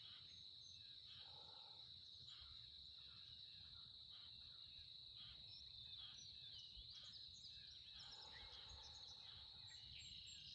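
Faint steady high-pitched insect trill, with scattered brief bird chirps over it.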